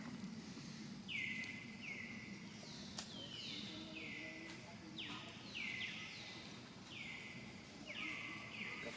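A bird calling over and over, about ten short calls, each dropping quickly in pitch and then holding briefly, over a steady background hiss.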